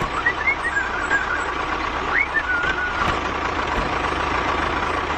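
Steady machine noise like a running vehicle engine, with a constant high whine and short chirps over it in the first three seconds.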